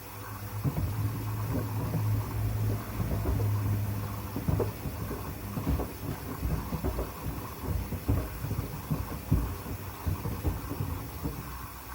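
Hoover washing machine running with pieces of wood tumbling in its drum: a steady low motor hum under irregular heavy knocks and thumps as the wood strikes the drum.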